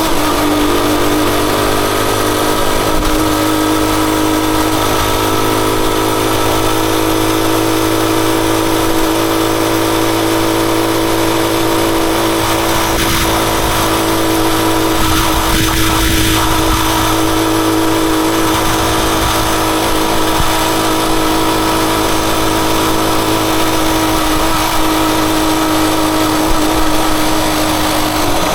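Rusi Chariot 175 motorcycle engine running at a steady, unchanging pitch over a constant hiss.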